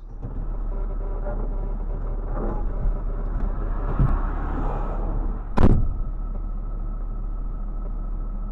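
Car driving, with steady road and engine noise as picked up by a dashcam, broken a little over halfway through by a single sharp loud bang of a collision.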